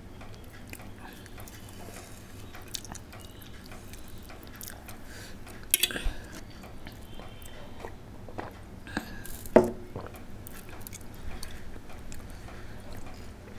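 A person chewing close to the microphone, with wet mouth clicks and lip smacks. A few sharper clicks and knocks stand out, the loudest about six and nine and a half seconds in.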